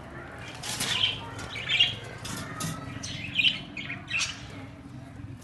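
Birds giving a series of short squawking calls, about one a second, over a low steady hum.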